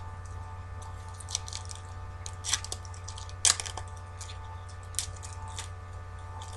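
Trading-card box and packs being ripped open: wrappers crinkling and tearing in irregular crackles, the sharpest snaps about two and a half and three and a half seconds in.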